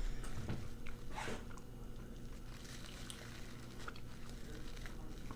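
Quiet chewing and biting into a chicken wing, with a few faint soft clicks over a low, steady background hum.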